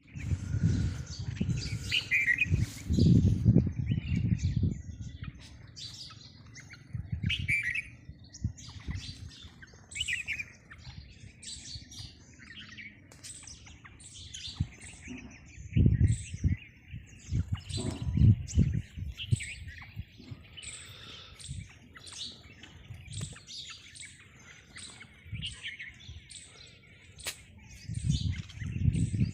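Many small birds chirping and twittering together, short calls overlapping throughout. Loud low rumbling bursts come and go underneath, strongest in the first few seconds, around the middle and near the end.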